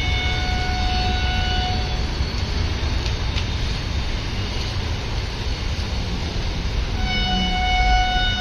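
Indian Railways train running past with a steady low rumble of wheels on rail. Its horn sounds for the first two seconds and again from about seven seconds in.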